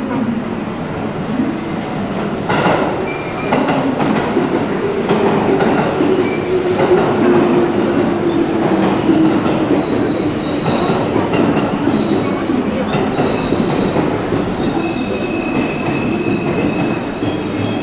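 Electric commuter train moving slowly along the platform, with clacks over the rail joints and a low motor hum that drifts slightly down. High wheel and brake squeals come in over the second half as it slows.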